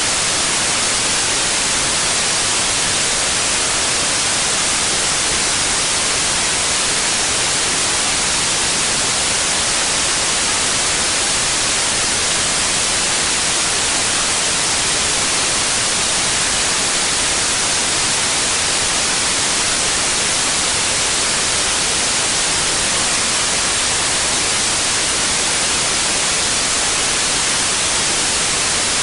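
Steady, unchanging white noise: an even hiss with no events, strongest in the upper frequencies.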